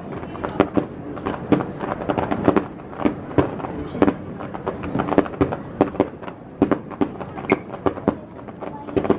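Aerial fireworks shells bursting in a dense barrage: many sharp bangs, several a second at irregular intervals.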